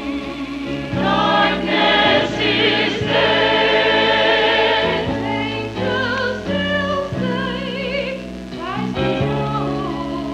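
Church choir singing in parts with accompaniment, voices swelling loudest a few seconds in, then continuing in shorter phrases.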